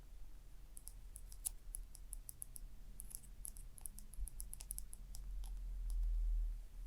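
Gentle ASMR tapping on a small object: a quick, irregular run of light, crisp clicks. A low rumble swells near the end and is the loudest sound there.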